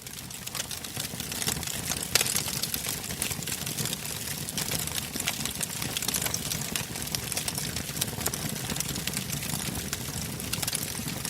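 Bonfire crackling: a steady stream of sharp crackles and pops over a low rumble, with one louder pop about two seconds in.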